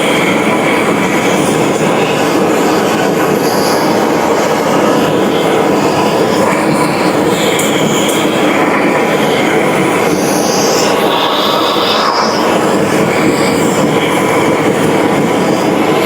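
Heavy machinery running with a loud, steady, unbroken noise.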